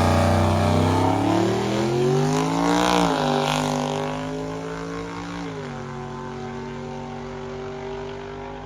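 A drag-racing car launching and accelerating hard. Its engine note climbs, drops with a gear change about three seconds in and steps down again a little after five seconds, growing fainter as the car pulls away.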